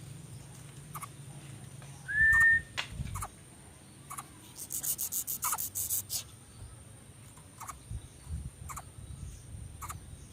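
A single short whistled bird note, rising then held, about two seconds in, among scattered faint clicks, a quick run of high-pitched ticks around the middle, and a steady thin high whine.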